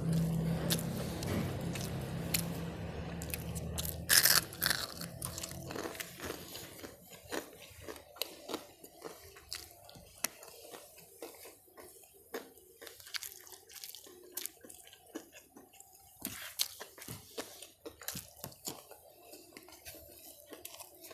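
Close-up chewing of crispy fried chicken and rice: irregular crisp crunches and wet mouth sounds, the loudest crunch about four seconds in. A low steady hum fades out over the first few seconds.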